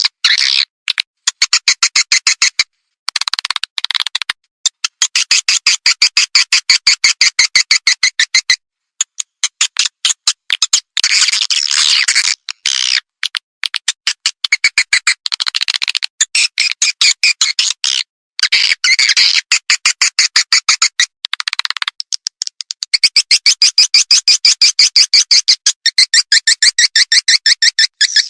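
Recorded swiftlet calling sound, the lure call played through tweeters to draw edible-nest swiftlets into a nesting house: rapid trains of short, high chirps, broken by brief pauses.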